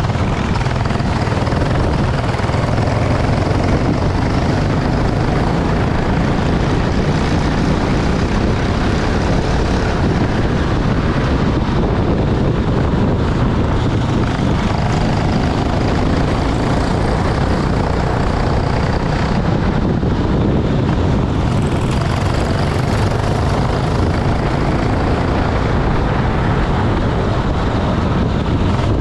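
Racing kart engine running continuously at speed, a loud steady drone heavy in the low end, mixed with a rushing noise.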